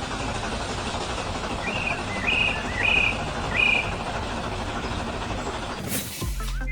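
A steady noisy rumble, like a vehicle running, with four short high chirps about two seconds in, roughly half a second apart.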